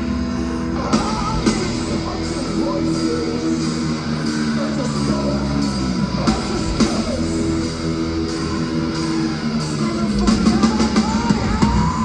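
Heavy rock band playing: electric guitars and a drum kit with singing, and a long held high note rising in near the end.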